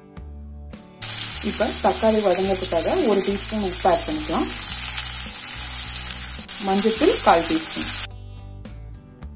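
Shallots, garlic and sliced tomato frying in hot oil in a pan, a loud, steady sizzle as they are stirred. The sizzle starts about a second in and cuts off abruptly near the end, leaving soft background music.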